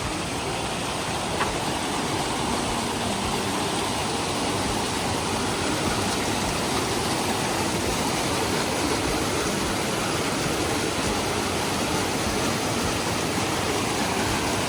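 Rushing floodwater of a rain-swollen mountain river: a steady, even roar of fast-flowing water.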